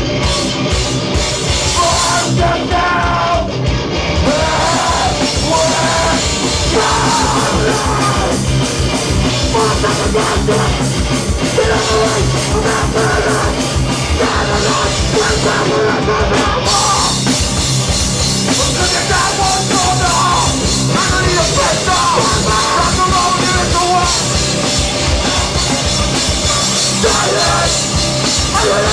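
Live hardcore band playing loud, fast music with distorted guitars and rapid drumming. The top end grows brighter a little past halfway through.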